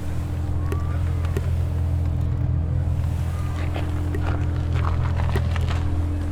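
Car engine idling steadily, with a constant low hum.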